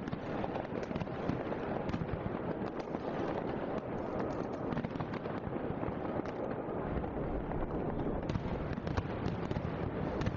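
Fireworks going off in a dense, continuous run of crackles and pops, with no single bang standing out.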